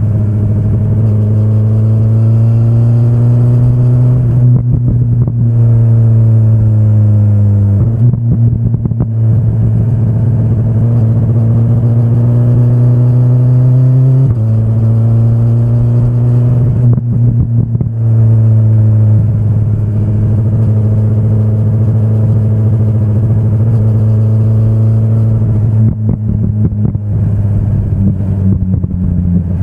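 2025 BMW S1000RR's inline-four engine running under load. Its pitch climbs steadily and then drops sharply twice, about 8 and 14 seconds in, as it shifts up through the gears.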